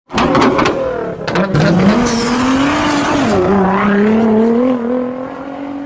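Car engine revving hard, with a rapid string of sharp exhaust pops and backfires in the first second and a half, then a sustained engine note that rises, dips a little past the middle, climbs again and fades near the end.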